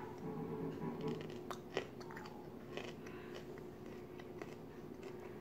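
A person chewing crunchy cucumber slices dipped in sauce, close to the microphone, with a few sharper crunches between about a second and a half and three seconds in.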